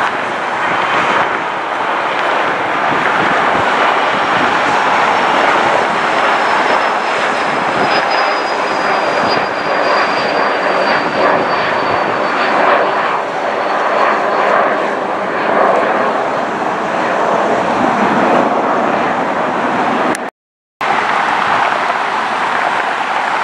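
Jet airliner engines running with a loud, steady rush and a faint high whine that slowly falls in pitch. The sound cuts out completely for a moment near the end.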